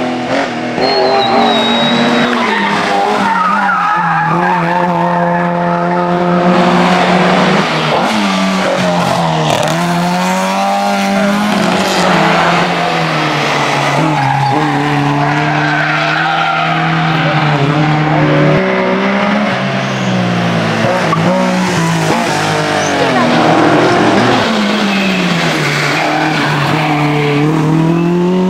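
Historic rally car engines revving hard, the pitch climbing through each gear and dropping at each shift or lift, again and again as the cars pass.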